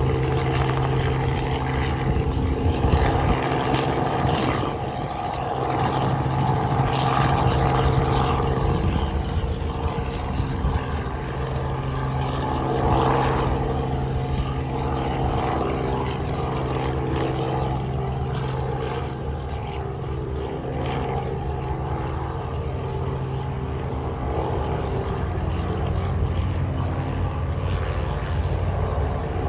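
Helicopter engine and rotor running steadily, a constant mechanical drone with several steady tones under a wash of noise, shifting slightly in level and pitch about eight seconds in.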